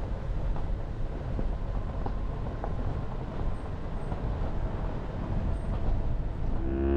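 Jeep Renegade driving, a steady rumble of engine and road noise with a few faint ticks. Near the end a chord of rising electronic tones starts over it.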